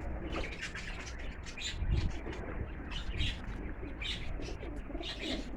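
Birds chirping in quick short calls, with pigeons cooing, around a pigeon loft, over a steady low rumble.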